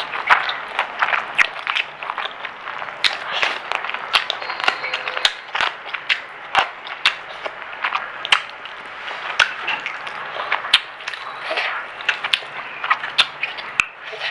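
Close-miked chewing and biting of crunchy fried food, with sharp crackles and crunches coming irregularly, several a second.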